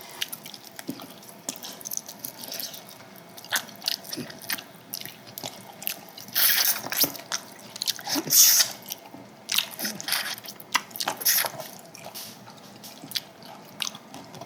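Close-up eating sounds: wet chewing and crunching with many small clicks, louder crunchy bites a few times, as a meal of samgyetang and fresh cabbage kimchi is eaten.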